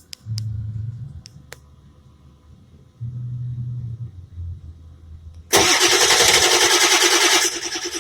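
2000 Ford F-350's 7.3-litre Power Stroke V8 diesel starting cold: a few clicks and short low hums, then it fires about five and a half seconds in and runs loud with a fast, even clatter, dropping back a little near the end. The owner says the engine has weak injectors and needs glow plugs.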